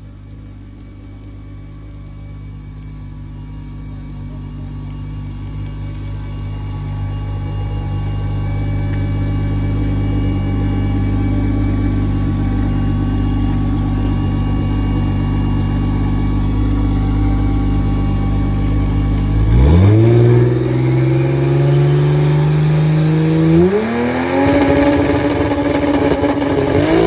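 Drag car's engine running steadily and growing louder, then launching about 19 seconds in with a sharp rise in revs, a hold, and a second jump in revs a few seconds later. The engine is breaking up after leaving the trans brake, a deep, rough sound likened to eating marbles; spark plugs are the suspect.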